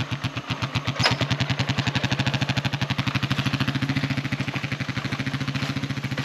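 Motorcycle engine idling close by, a steady, even pulsing beat, with a single sharp click about a second in.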